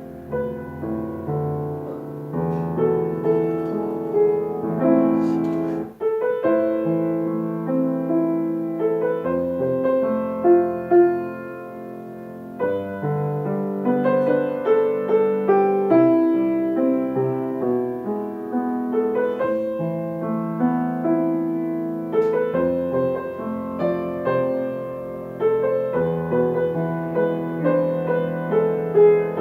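Solo piano playing a slow, gentle piece in chords, with notes struck and left to ring.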